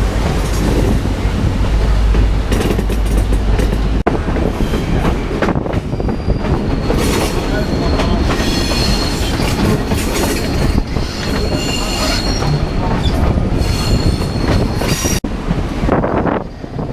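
Passenger train running on the rails, heard from aboard: steady rumble and clatter of wheels on track, with high-pitched wheel squeal through the middle of the stretch.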